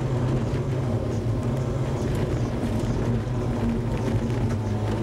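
Trabant rally car's two-stroke engine running at a steady pitch under load, heard from inside the cabin.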